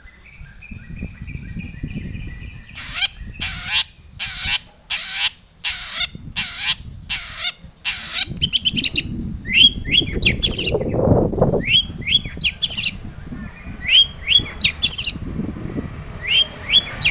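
Long-tailed shrike singing. A short run of rising piping notes gives way to a series of harsh rasping calls about twice a second, then clusters of quick, sharp upward-sweeping chirps.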